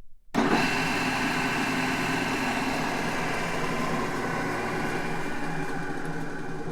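Large drill press running with a steady mechanical hum made of several steady tones over a noisy whir. It begins abruptly about a third of a second in, after a brief gap, and eases slightly in level toward the end.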